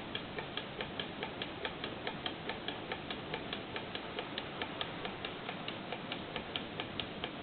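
Small 3D-printed Stirling engine with a balloon diaphragm, running on the heat of a cup of hot water; its mechanism clicks steadily and evenly, a few times a second.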